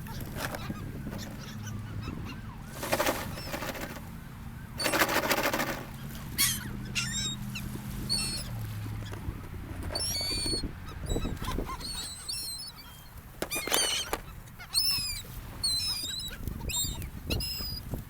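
Seagulls calling repeatedly: many short, harsh squawks, some overlapping. There are two brief rushes of noise about three and five seconds in.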